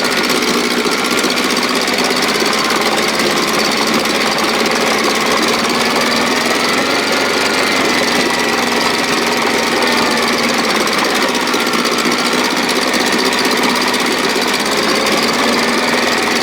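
1957 Sea King 5 hp two-stroke outboard motor running steadily above idle with the throttle in the start position, its pitch wavering slightly midway.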